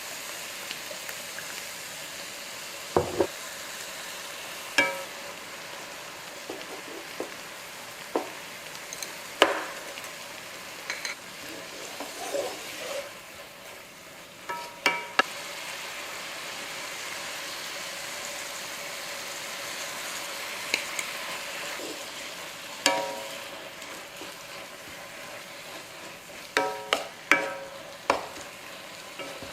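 Food sizzling steadily in a hot pan while a utensil stirs it, with sharp metallic clinks against the pan every few seconds, several of them close together near the end.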